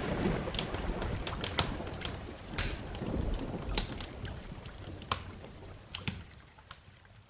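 Wood fire crackling with sharp, irregular pops over a low rumble of thunder and rain; the whole sound fades steadily away toward the end.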